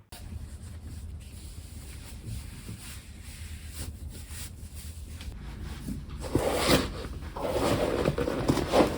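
Faint clicks and light rustling of things being handled, becoming louder and busier from about six seconds in, over a low steady hum.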